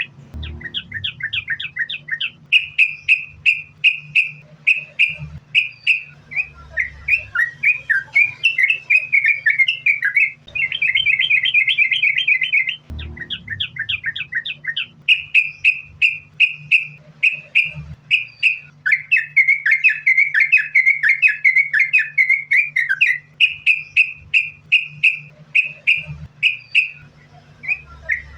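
Yellow-vented bulbul (trucukan) singing a long, continuous run of rapid, repeated chirping notes, broken only by a few brief pauses. A steady low hum runs beneath the song.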